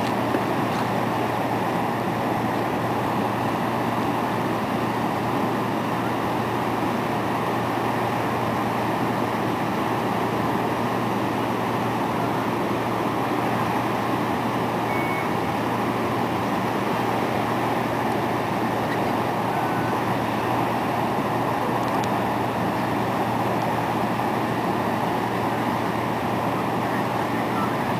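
Steady vehicle noise: a constant low engine hum under an even rushing noise.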